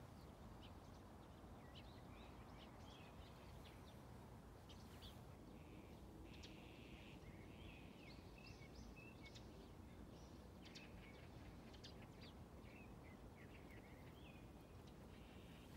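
Faint birds chirping, many short calls scattered throughout, over a low steady background rumble.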